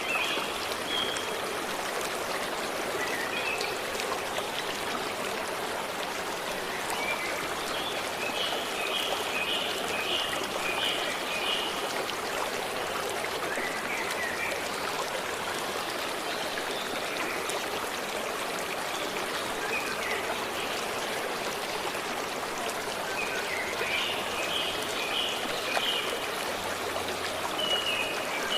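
A forest stream flowing in a steady rush, with a songbird calling over it in short runs of rapid high notes, clearest about a third of the way in and again near the end.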